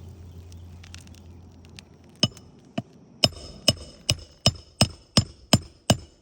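Rapid series of sharp, ringing strikes on a shingle roof, about ten blows starting about two seconds in and coming at roughly two to three a second.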